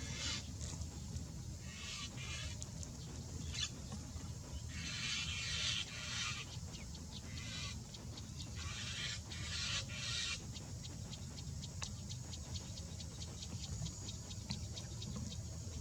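Birds calling in repeated harsh, chattering bursts over a steady low hum, followed after about ten seconds by a quick run of faint clicks.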